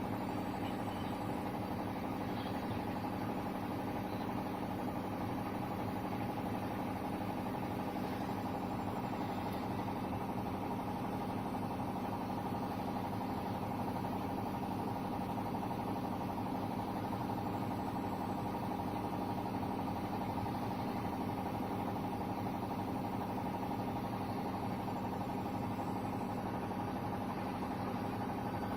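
A steady machine hum made of a few constant tones, unchanging throughout.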